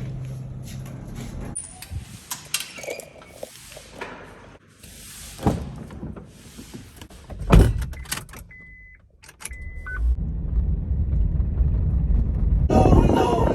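Clicks and clunks of handling around a car, then two short high beeps. About ten seconds in, a car engine starts running with a low steady rumble that grows louder.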